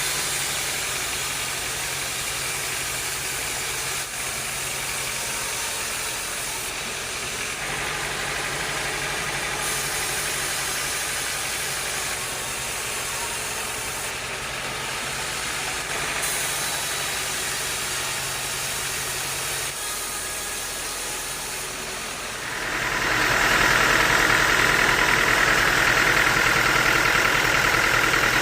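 Bandsaw sawmill machinery running with a steady drone; about 23 seconds in it grows louder and a high whine joins it.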